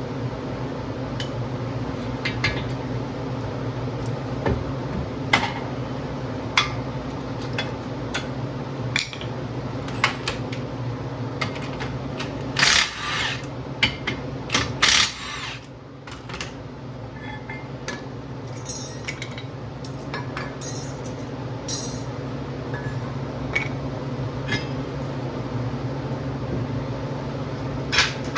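Metal tools and parts clinking and clanking now and then, with a busier burst of clatter about halfway through, over a steady low hum.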